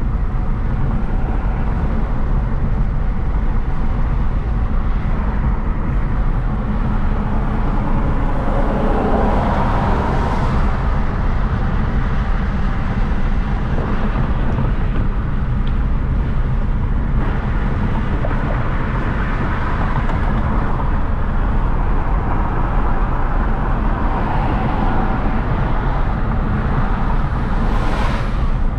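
Hyundai Genesis Coupe 3.8 V6 on the move: steady engine and road rumble. The noise swells louder about ten seconds in and again near the end.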